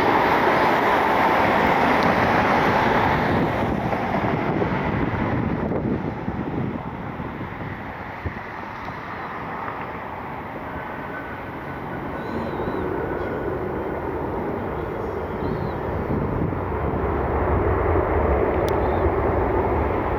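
Jet airliner engines, a loud rushing noise that fades away over the first several seconds, then a low rumble slowly building again toward the end.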